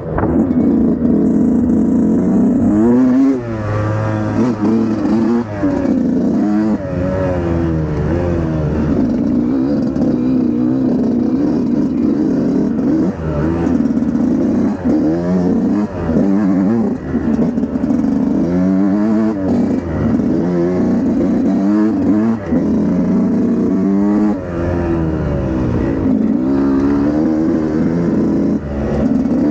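Dirt bike engine being ridden hard, revving up and down over and over as the throttle is opened and closed, its pitch rising and falling every couple of seconds.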